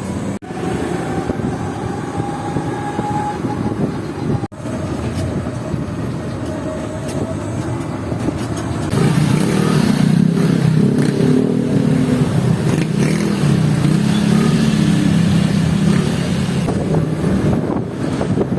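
Motor vehicle engine and road traffic noise, growing louder and heavier about halfway through.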